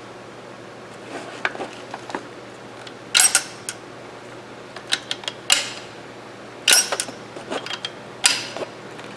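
Loose steel parts of a disassembled lever-action rifle clicking and clattering as they are handled, with scattered light clicks and about four louder clacks, each with a short rattle.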